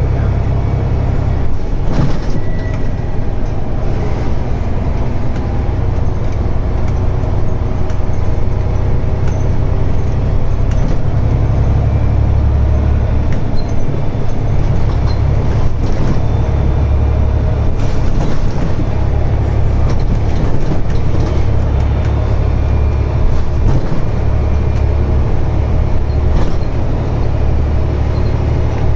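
Scania N94UD double-decker bus engine running, its low rumble swelling and easing several times as the load changes, with occasional short rattles.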